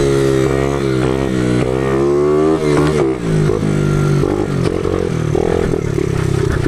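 Small pitbike engine being ridden off-road, revving up and falling back several times, then running at lower, uneven revs with choppy throttle from about halfway.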